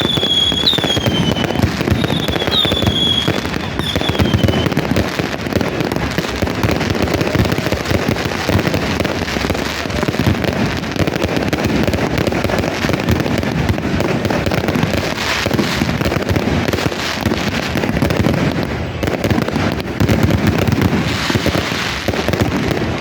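Fireworks and firecrackers going off in a dense, continuous crackle of rapid pops. A few short, falling whistles sound over the crackle in the first few seconds.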